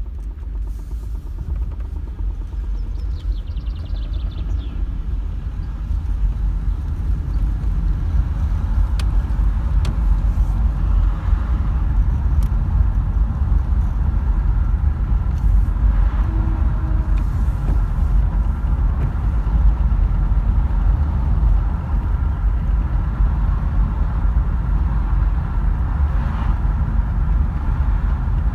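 Holden VZ Commodore Berlina engine idling with a knocking sound, a steady low running that grows louder about six seconds in.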